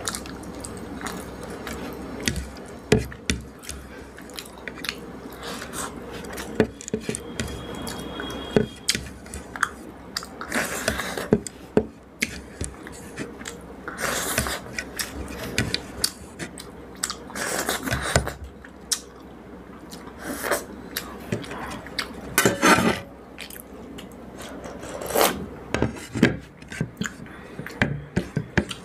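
Close-up eating sounds: chewing rice and fish curry with wet mouth clicks, and now and then a short scrape or clink of food being gathered from the plate.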